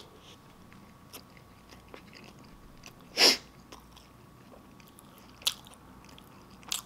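A person chewing a mouthful of sloppy joe (soft bun and saucy minced meat) with the mouth closed: faint soft clicks, plus a few short, louder wet mouth sounds, the loudest about three seconds in and two smaller ones near the end.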